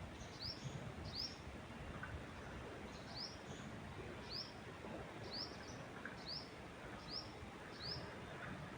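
A songbird repeating a short, high, upward-sliding chirp about once or twice a second, over a steady hiss of wind moving through trees.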